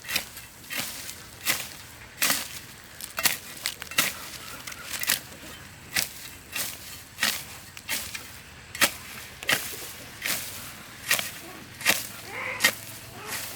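A hand tool chopping in a steady rhythm, about three strikes every two seconds.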